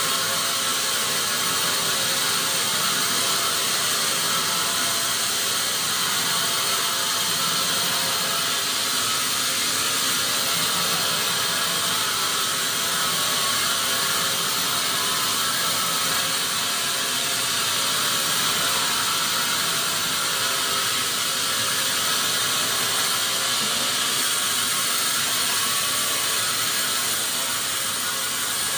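Sawmill machinery running, a saw cutting wood with a steady, unbroken hiss.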